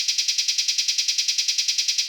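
Eurasian tree sparrow's fast, dense chattering call, an even, high-pitched stream of about eight notes a second: the aggressive 'fighting' chatter of a sparrow squaring up to a rival.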